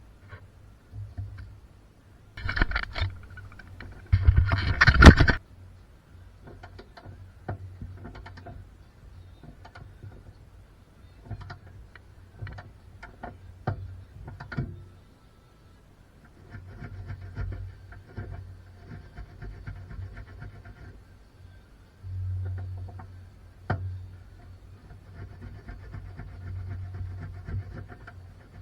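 Workshop handling noises: scattered clicks, knocks and scrapes of tools and parts, with two short loud bursts of noise a few seconds in.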